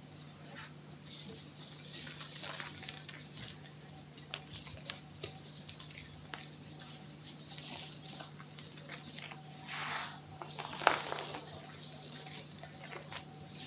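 Close-miked chalk crunching and crackling, with many scattered sharp clicks and one sharper crack about eleven seconds in.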